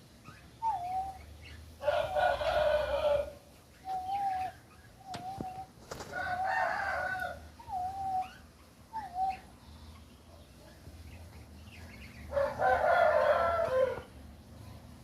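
A rooster crowing three times, each crow about a second and a half long. Between the crows come several short, single-pitched bird calls with a hooked end.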